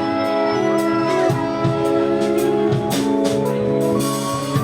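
Live rock band playing between sung lines: electric guitar chords and bass over a steady drum-kit beat, no vocals.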